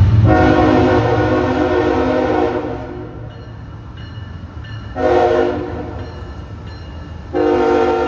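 Locomotive multi-chime air horn sounding as the train approaches: a long blast, a short blast about five seconds in, then another long blast that is still going at the end, over a steady low rumble.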